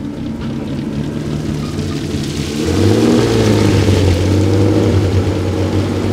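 Heavy off-road competition truck's engine working under load, revving up about two and a half seconds in and then holding at higher revs.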